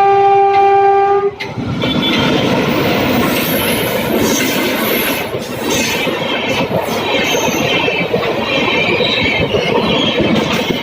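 An Indian Railways express train's locomotive horn sounds a steady blast that cuts off about a second and a half in. The coaches then rush past at high speed, with wheels rattling over the rail joints and some high-pitched squealing.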